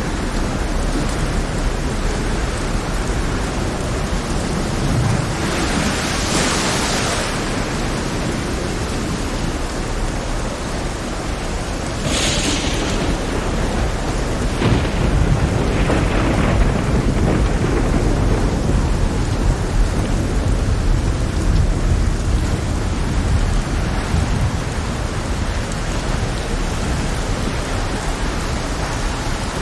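Heavy rainstorm: steady rain hiss over a low rumble. A louder surge comes about six seconds in, a sharp crash about twelve seconds in, and two smaller crashes just after it.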